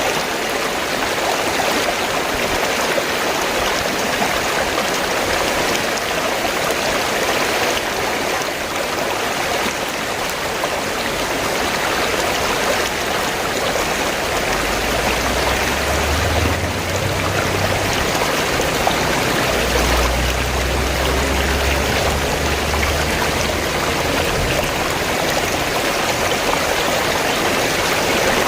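A river flowing steadily with a continuous rushing hiss. A low rumble joins it about halfway through and fades out again some ten seconds later.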